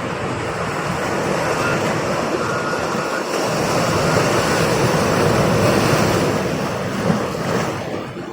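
Steady rush of waves and wind, loudest in the middle and cutting off suddenly at the end.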